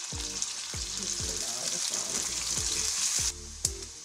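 Carrot strips, raisins, almonds and dried dates sizzling in hot ghee in a wok. The sizzle drops away abruptly a little after three seconds in, followed by a single click.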